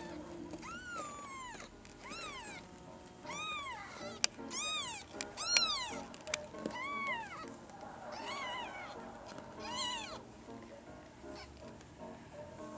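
A kitten meowing over and over, about eight high-pitched meows that each rise and fall in pitch, stopping about ten seconds in.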